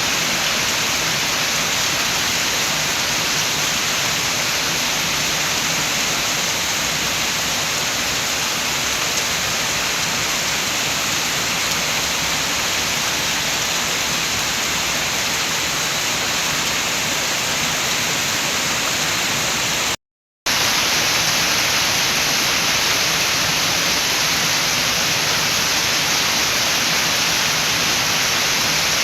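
Steady, heavy rain hiss with wind, an even wash of noise that cuts out completely for about half a second about two-thirds of the way through before resuming.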